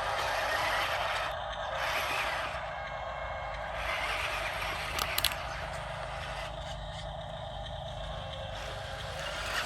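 Radio-controlled construction model working on dirt: a steady mechanical noise from its electric motor and gears, with scraping, and two sharp clicks about five seconds in.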